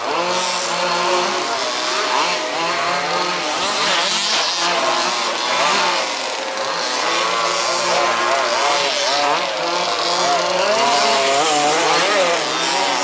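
Several 1/5th scale 2WD RC buggies racing, their small petrol two-stroke engines overlapping, each one revving up and easing off over and over as the cars accelerate and brake around the track.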